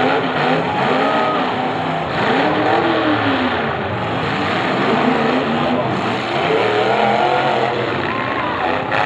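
Several demolition derby cars' engines revving hard at once, their pitches repeatedly rising and falling over each other in a continuous noisy din as the cars push against one another.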